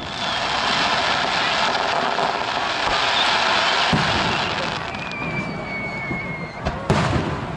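Fireworks: a dense crackling hiss for the first few seconds. Then comes a thin whistle that falls slightly in pitch, and a sharp bang near the end.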